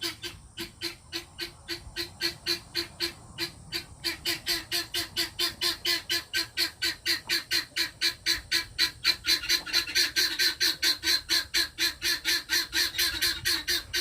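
Guinea fowl giving their rapid, repeated alarm cackle, about four to five harsh calls a second, growing louder about four seconds in.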